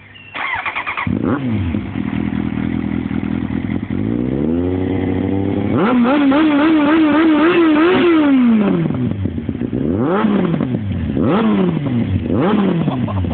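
Kawasaki ZX-9R inline-four engine through an IXIL exhaust with the dB killer removed, so it runs open and loud. After a quick blip and a short idle, the revs climb and are held high with a wavering pitch for about two seconds, then drop back. Near the end come three sharp throttle blips, each rising and falling.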